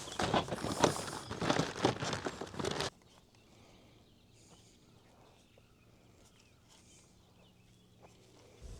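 A quick run of irregular knocks and clatter that cuts off suddenly about three seconds in, followed by near silence.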